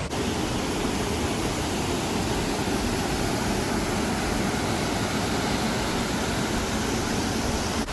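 Waterfall and its rushing water: a steady, even noise of falling water that holds unchanged throughout.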